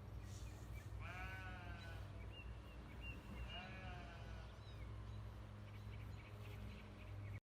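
An animal gives a bleat-like, quavering call twice, each lasting under a second, over a steady low hum.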